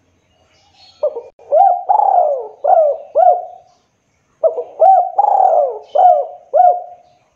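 Spotted dove cooing: two phrases of about five coos each, the first starting about a second in and the second about halfway through, each ending on a longer, trailing note.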